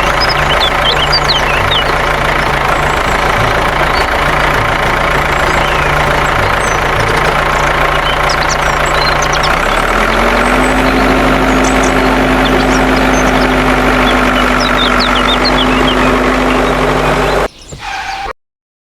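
A motor running steadily with a low hum. About ten seconds in, a steady higher tone joins it. It cuts off suddenly near the end.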